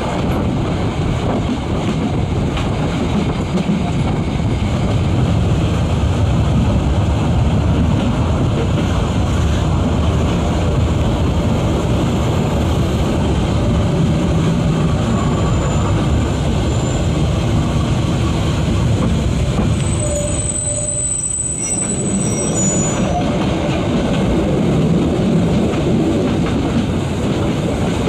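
Metre-gauge Harz steam train running, heard from an open coach window: a steady rumble of wheels on welded rail mixed with wind. A couple of brief high wheel squeals come on curves, past the middle.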